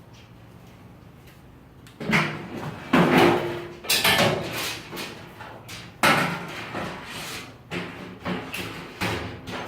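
A run of loud knocks, bangs and clatter from objects being handled and set down. It starts about two seconds in, with the heaviest bangs near three, four and six seconds in and smaller knocks after them.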